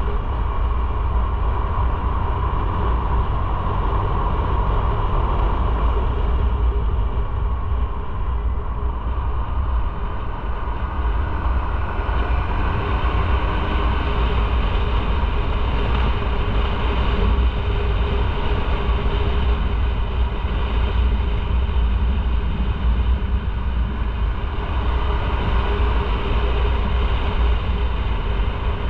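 Motorcycle under way at a steady pace: the engine runs evenly under a heavy, steady wind rumble on the microphone.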